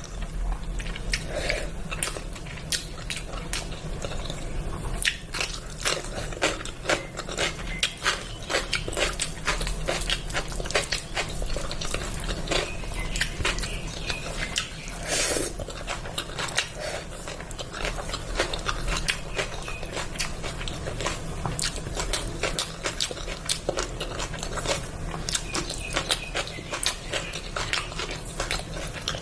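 A person eating close to the microphone: steady chewing with many quick mouth clicks, over a low steady hum.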